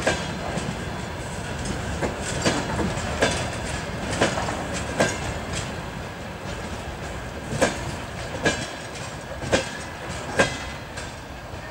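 Freight train of railway tank cars rolling past, their wheels clicking sharply over the rail joints every second or so over a steady rolling rumble.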